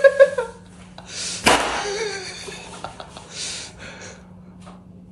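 A person's laughter tailing off in short pitched pulses, then, about a second and a half in, a sudden noisy burst of breath that fades out, followed by a shorter hissing breath, like stifled laughter.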